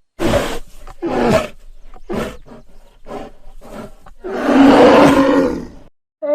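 An animal's rough, breathy calls: about six short grunts, then one longer roar about four seconds in.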